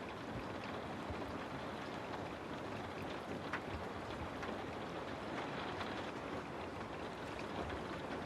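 Steady rain falling, a constant wash with many small drops pattering on a surface.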